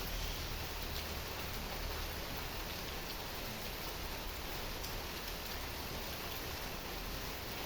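Heavy rain falling steadily, an even hiss of rain with scattered individual drops ticking.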